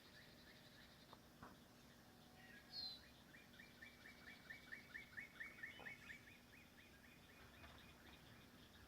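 Faint songbird song: a single high chirp, then a trill of about twenty quick repeated notes lasting nearly four seconds.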